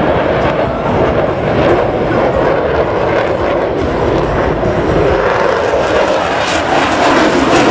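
Display aircraft flying past, its engine noise loud and steady, growing louder near the end.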